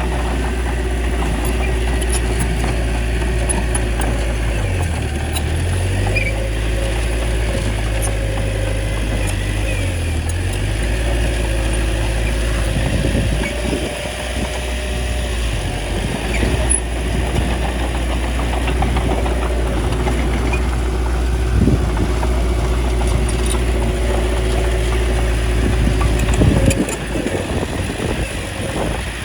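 Small bulldozer's diesel engine running steadily, its note dipping briefly about five and ten seconds in as the load or revs change.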